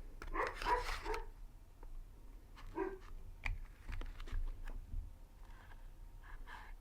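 A dog barking: three quick barks within the first second, then one more about three seconds in.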